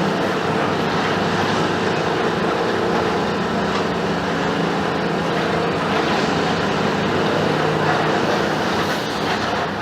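Mercedes-Benz OF-1721 BlueTec 5 diesel city bus on the move: steady engine hum under heavy, even road and cabin noise, the engine's tone fading into the noise early on.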